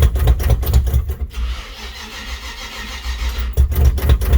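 Carbureted 350 small-block V8 of a 1941 Chevy pickup being cranked by the starter in two bursts with a pause between, not yet catching. It is a cold start after the truck has sat for about three weeks.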